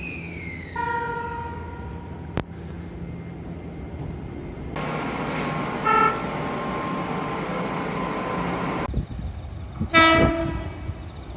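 Shizuoka Railway electric train horns sounding three times in separately cut clips: a toot of about a second starting about a second in, then two short toots about six and ten seconds in, over the running noise of the train.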